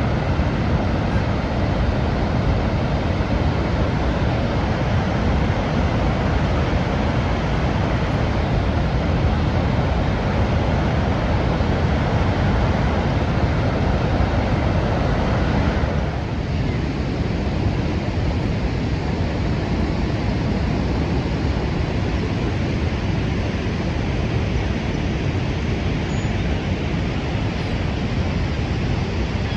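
Niagara Falls, a steady roar of falling water; about halfway through it turns a little duller and softer in its upper range.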